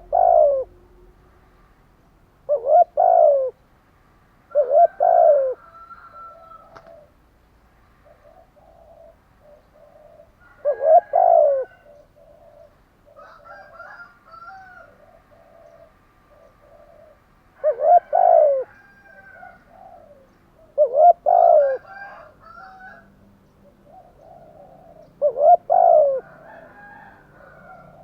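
Spotted dove cooing: seven short phrases of low, falling coo notes, spaced a few seconds apart. Faint chirps of other small birds sound between the phrases.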